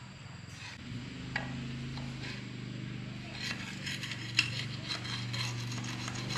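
Metal tools and engine parts clinking and tapping against each other in scattered knocks, the sharpest about four seconds in, over a steady low machine hum that starts about a second in.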